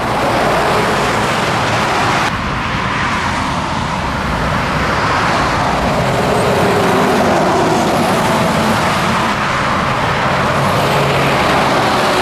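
Scania truck on the move: steady engine and road noise.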